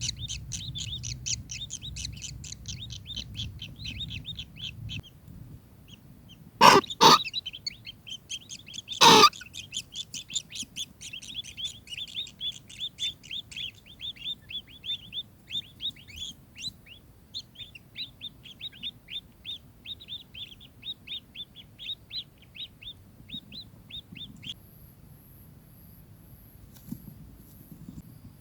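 Kingfisher calling in rapid runs of short, high notes, about five or six a second, with two very loud, harsh calls around a quarter of the way in. Near the end the notes stop and a thin, very high pulsing tone is left.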